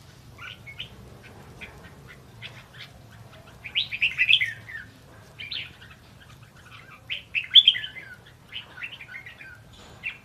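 Red-whiskered bulbul singing in short, quick chirped phrases, with two louder bursts of song about four and seven and a half seconds in.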